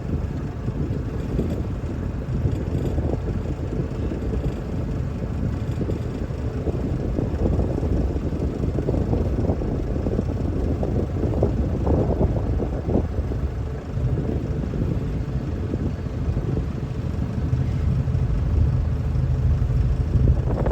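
Wind buffeting the microphone aboard a sailboat, a steady low rumble.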